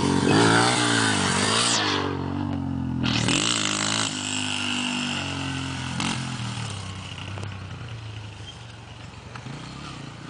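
Dirt bike engine revving up and down, then growing fainter through the second half.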